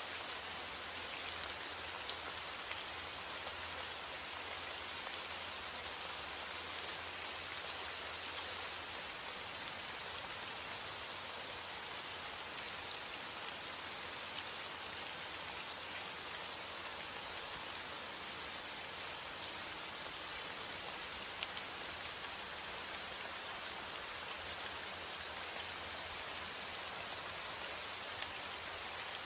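Steady heavy rain falling, a continuous hiss with many individual drops pattering on surfaces.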